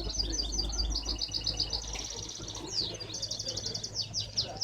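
Many small caged songbirds chirping and singing at once, with rapid high trills and quick repeated notes overlapping one another.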